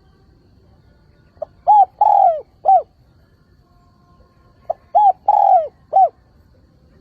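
A male spotted dove cooing its calling song: two phrases about three seconds apart, each a short soft note followed by three arched coos, the middle coo the longest.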